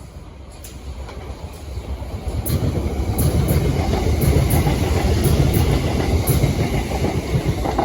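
Southeastern Class 375 Electrostar electric multiple unit passing. Its rumble builds over the first couple of seconds and then stays loud, with a string of sharp clicks from the wheels on the track.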